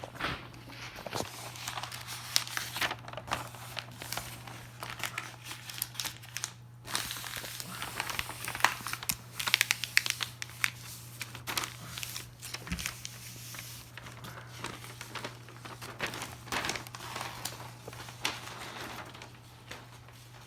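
Large taped-together sheets of paper being folded and creased into a giant paper airplane: irregular crinkling and rustling with sharp crackles, over a steady low hum.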